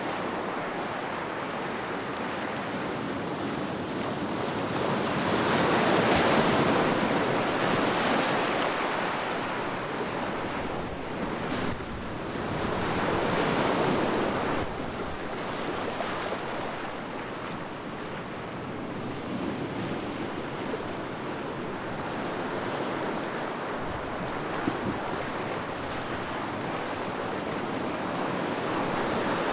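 Sea waves breaking and washing up the shore in slow swells, loudest about six and thirteen seconds in.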